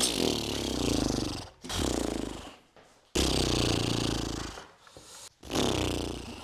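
Low growling vocal sounds in four long, drawn-out bursts with short pauses between them.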